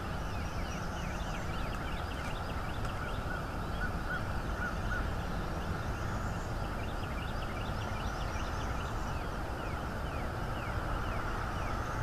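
Birds calling in runs of short, quick, falling chirps, clustered near the start and again in the middle, over a steady low rumble.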